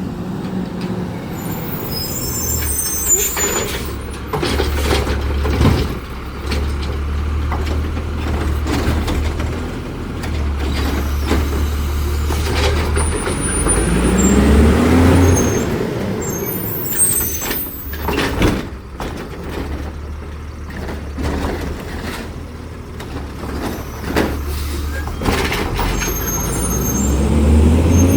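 Garbage truck's diesel engine running, revving up twice, about halfway through and near the end, with short air-brake hisses and scattered knocks and clanks.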